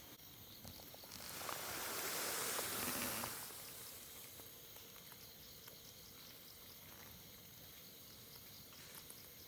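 Quiet mountain-forest ambience: faint rain patter and insects. About a second in, a rush of noise swells for about two seconds and fades.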